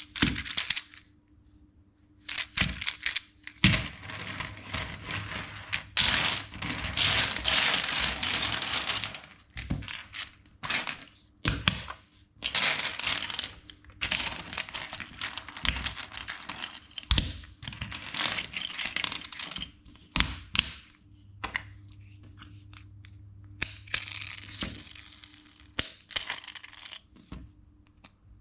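Plastic LEGO bricks clicking and rattling as they are handled and pressed together: sharp irregular clicks with longer stretches of rummaging rattle between them.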